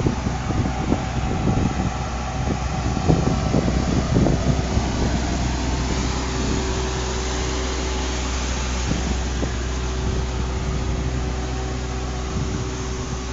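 Car running, heard from inside the cabin: a steady low hum with a few light knocks and rattles in the first few seconds, then a steady faint tone joining the hum.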